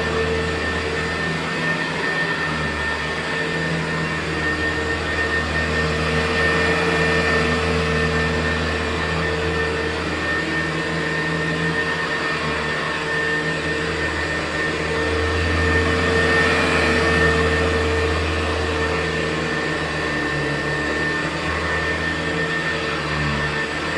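Hoover U4007 upright vacuum cleaner with a four-row brushroll running steadily over carpet. A constant high whine sits over a low motor hum, and it swells and eases slightly as it is worked back and forth.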